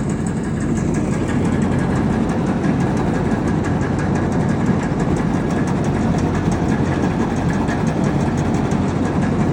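Tractor diesel engine running steadily, with a rapid, even clatter.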